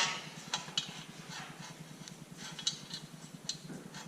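Light, scattered clinks and taps of small metal tools and parts being handled, over a steady low hum.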